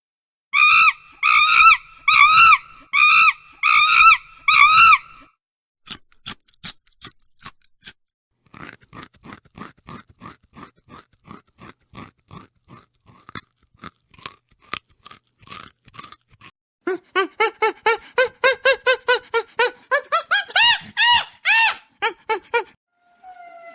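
Animal calls: about seven repeated, pitched calls in the first five seconds, then a long run of quick sharp clicks, then a fast series of calls rising in pitch near the end.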